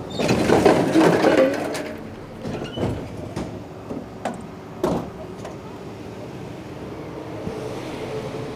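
Wheelie bin being handled: a loud rattling clatter for the first two seconds, then a few separate knocks. A steady hum from the garbage truck's engine follows.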